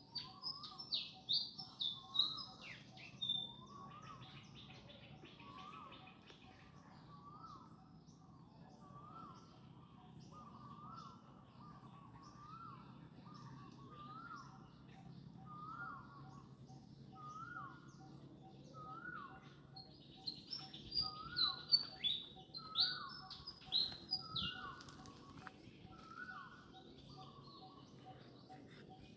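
Birds calling: one short call repeated about once a second throughout, with bursts of higher, quick chirps near the start and again in the last third.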